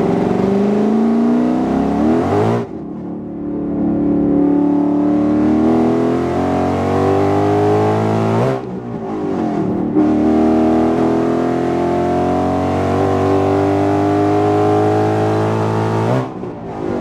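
Whipple-supercharged 5.0 Coyote V8 of a 2018 Mustang at full throttle, heard from the cabin as it pulls hard through the gears toward 6500 rpm. The engine's pitch climbs steadily, drops at an upshift about two and a half seconds in, climbs again, drops at a second shift near the middle, and climbs once more before falling near the end.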